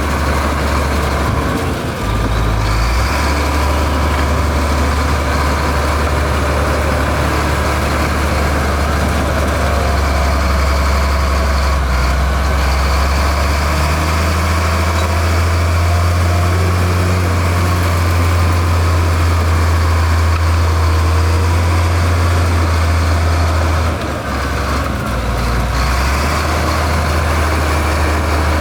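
Heavy diesel engine of earthmoving machinery running steadily with a deep low hum. The engine note shifts briefly about two seconds in and again near the end.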